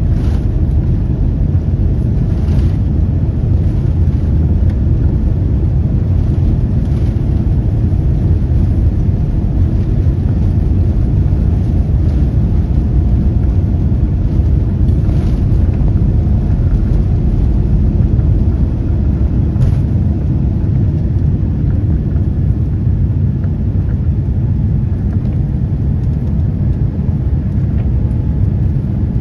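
Aeroplane's steady, loud low rumble during takeoff, with a few faint clicks.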